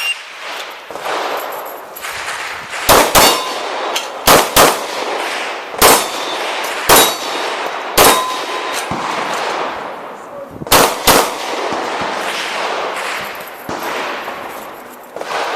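A pistol firing a course of fire, about nine shots in quick pairs and singles, with steel targets ringing with a clang after some hits. A steady rushing noise fills the gaps between shots.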